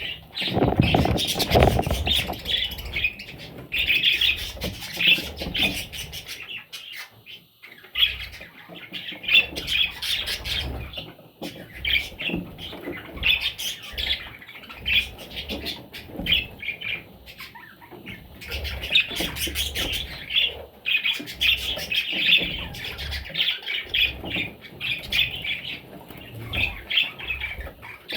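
Budgerigars chirping and chattering almost without pause in rapid, high twittering calls, mixed with sharp clicks and a few low knocks and rustles.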